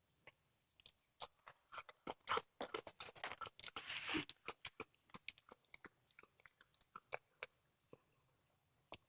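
A cat chewing and crunching on a squirrel carcass: a dense run of sharp crunches about two to four seconds in, then slower, sparser bites.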